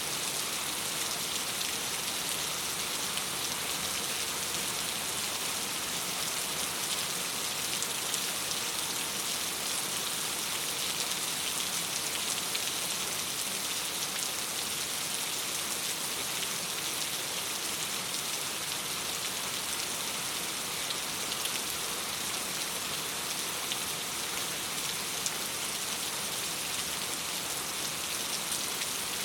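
Steady rain falling on a window: an even, unbroken hiss with faint scattered drop ticks.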